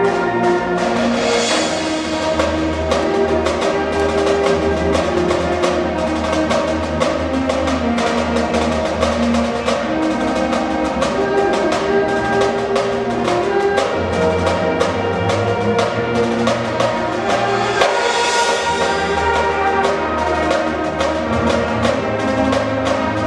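High school marching band playing: brass and woodwinds holding sustained chords over a steady beat of snare and other marching percussion, with cymbal crashes about two seconds in and near the end.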